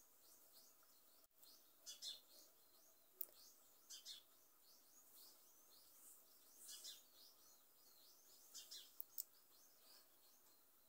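Faint birds chirping in the background: many short, high chirps come and go, with a few soft clicks among them.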